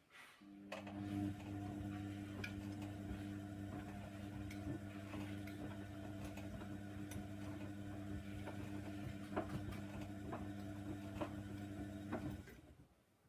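Hoover Nextra washer dryer running a steady hum, with irregular ticks and clicks over it. It starts about half a second in and cuts off suddenly near the end.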